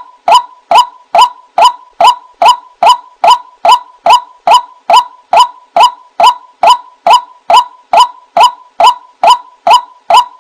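White-breasted waterhen (ruak-ruak) call repeated in a steady, even series of short notes, about two and a half a second, as used to lure the bird.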